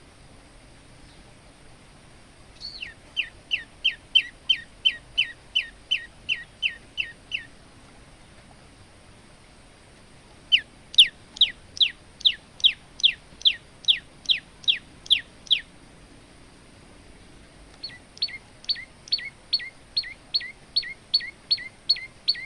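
Male olive-backed tailorbird singing three bouts of rapid, evenly repeated falling notes, about three a second, with a pause of a few seconds between bouts. The last bout uses a slightly different note with a low tail.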